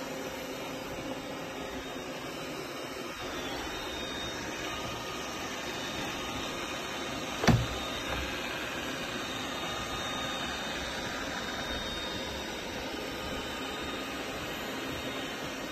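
Robot vacuum running with a steady whir of its suction fan, and a single sharp knock about halfway through.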